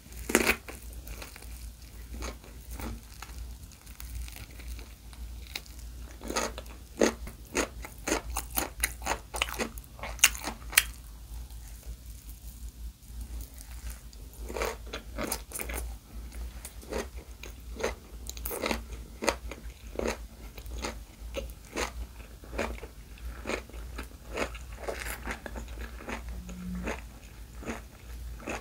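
A person bites into and chews a rice-free gimbap roll of seaweed wrapped around egg, carrot, raw cucumber and pickled radish, close to the microphone. A sharp crunch of the bite comes near the start, then crunching chews follow, densest from about six to eleven seconds in, over a faint steady low hum.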